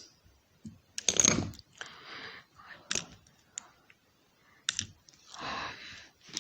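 Small plastic clicks and knocks from a toy train engine and pliers being handled while a rubber traction tire is worked onto a wheel, with a louder clatter about a second in.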